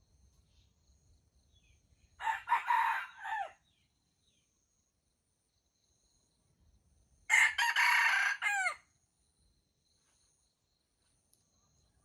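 Jungle fowl rooster crowing twice, a short crow about two seconds in and a louder one about five seconds later, over faint steady insect chirping.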